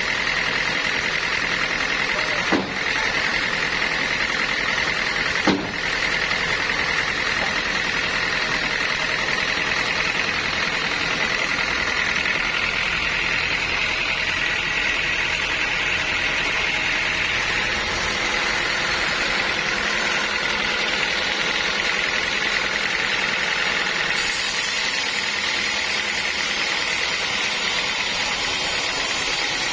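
Sawmill saw and its motor running steadily, with a sustained whine, two sharp knocks a few seconds apart early on, and a hissier edge coming in near the end.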